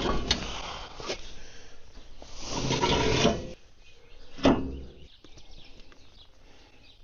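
Knocks and scraping of heavy metal parts being worked into place while a Caterpillar D4 bulldozer's track tensioner spring is installed: a few sharp knocks, a scraping noise about two to three seconds in, and a loud knock about four and a half seconds in.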